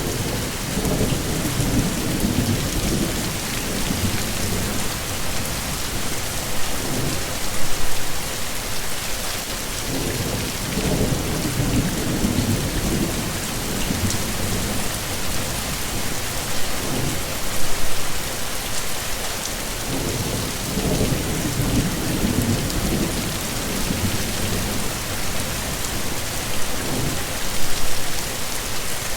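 Heavy rain falling steadily, with low rolling rumbles of thunder swelling and fading several times.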